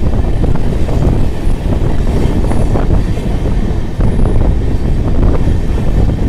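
Train running along the track, a loud steady rumble and rattle of wheels on rails with many short clicks and knocks.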